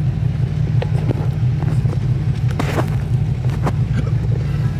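A car engine rumbling at idle, a steady deep throb, with a few faint clicks or knocks over it, one about a second in and a couple near the middle.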